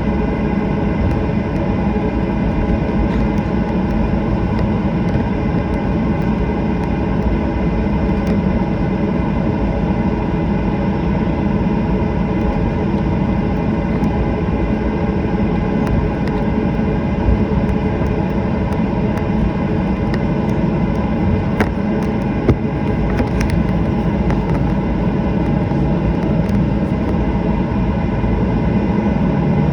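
Cabin noise of a Boeing 737-800 taxiing after landing: a steady rumble and hum from its CFM56 engines at idle, with scattered faint clicks and rattles.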